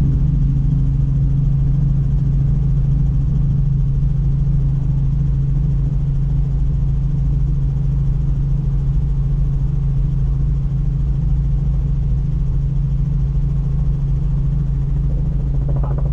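Helicopter in flight: a loud, steady drone from its rotor and engine.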